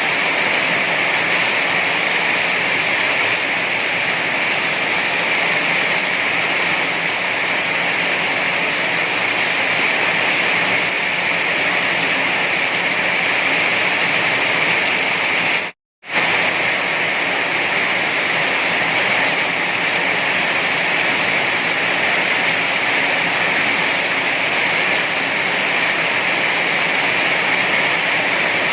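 Heavy rain falling as a steady, even hiss. The sound cuts out for a split second about halfway through, then resumes unchanged.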